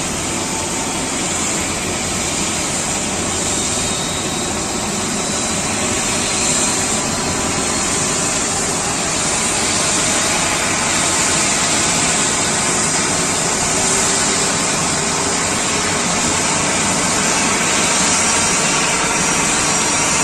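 Jet airliner engines running: a steady, loud rush and hiss with no breaks, growing a little louder in the second half.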